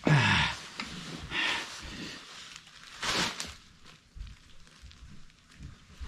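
A man grunting and breathing hard with effort in several short strained bursts while cranking a wrench to tighten a threaded black iron pipe fitting. The first grunt, right at the start, is the loudest and falls in pitch.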